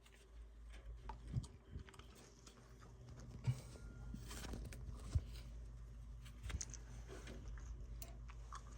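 Faint, scattered clicks and taps of a hand tool and fitting as a pressure probe is removed and a gas valve's pressure-port screw is tightened, over a low steady hum.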